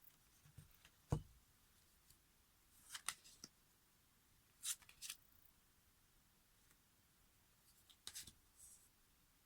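Tarot cards being handled at a table: a few brief papery swishes and taps, with one sharp thump about a second in.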